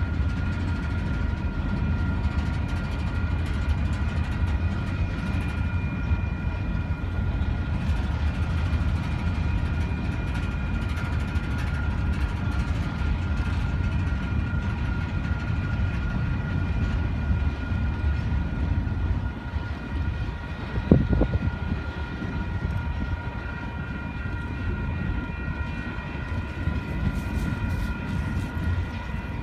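Train rolling past: a steady low rumble of wheels on rails, with several steady high ringing tones above it. A brief louder clunk stands out about three quarters of the way through.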